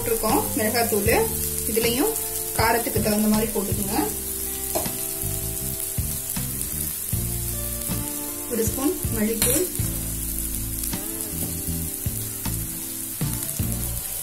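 Chopped onions sizzling as they fry in oil in a frying pan, a steady hiss, with background music playing underneath.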